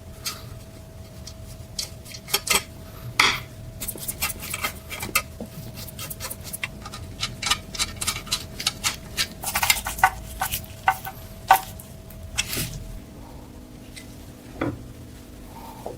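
Small metal parts and tools clinking and tapping as they are handled, in many quick, irregular clicks that come thickest in the middle, over a faint steady hum.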